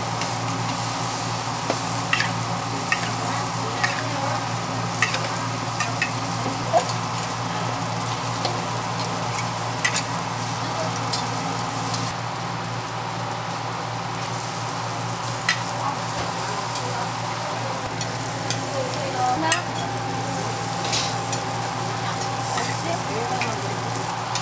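Hotteok (Korean sweet pancakes) sizzling in oil on a flat steel griddle, a steady hiss, with scattered sharp clicks and scrapes of metal tongs and a spatula on the griddle as the pancakes are turned.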